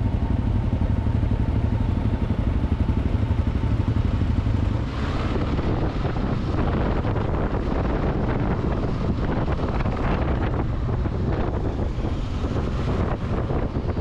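Motorcycle engine running steadily while riding in traffic, with a rushing wind-and-road noise that grows stronger about five seconds in.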